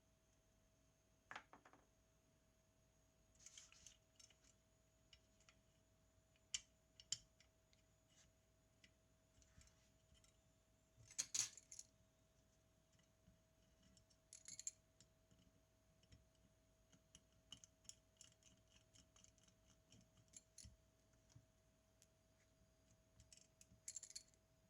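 Faint scattered clicks and small metallic clinks of tools and parts being handled while a Zenit TTL film camera is worked on, with a loud cluster about halfway through.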